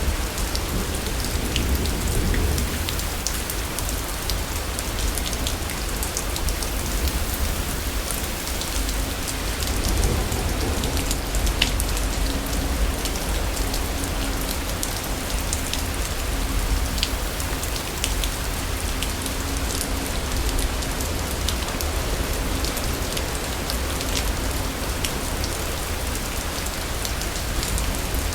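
Steady heavy rainfall, an even hiss sprinkled with fine drop ticks over a constant low rumble. A faint low drone rises in the middle and fades out again.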